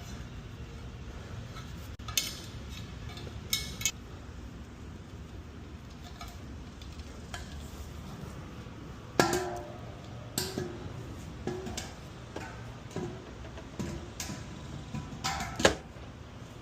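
Scattered metallic clinks and clanks, two of the louder ones ringing briefly, over a steady low hum.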